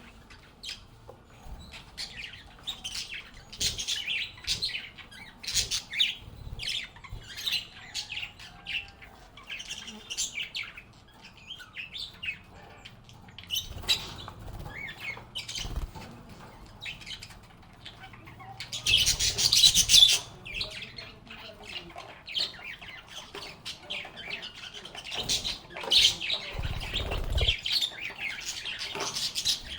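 Lovebirds chirping and chattering in a steady stream of short, high calls, with a dense, loud burst of calls about two-thirds of the way through. A few low thuds are mixed in.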